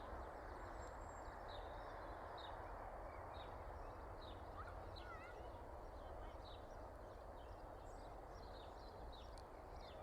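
Faint birdsong: many short chirps and a few whistled notes from small birds, over a steady background hiss.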